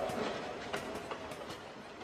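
Train sound effect fading out: the echo of a train whistle dies away at the start, leaving a falling rumble of rail clatter with scattered clicks.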